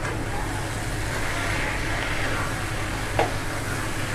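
Freshly added sliced mushrooms sizzling in a hot kadai of fried masala as a spatula stirs them, with one sharp clack of the spatula against the pan about three seconds in, over a steady low hum.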